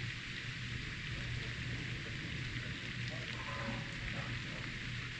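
Steady rain from a thunderstorm, an even hiss with a low steady hum underneath.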